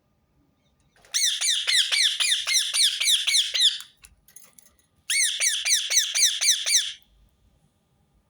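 Rose-ringed parakeet calling: two bouts of rapid, shrill repeated notes, each dropping in pitch, about six a second, the second bout starting about a second after the first stops.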